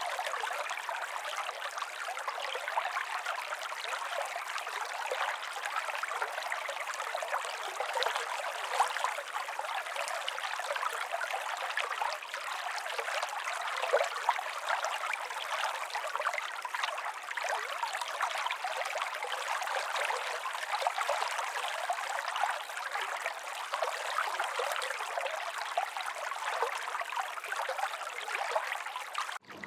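Small stream of running water trickling and babbling steadily, with no deep rumble beneath it. It cuts off suddenly just before the end.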